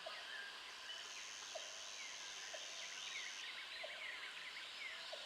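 Faint jungle ambience: many birds chirping in quick falling notes over a steady, high insect drone, with a short low call repeating about once a second.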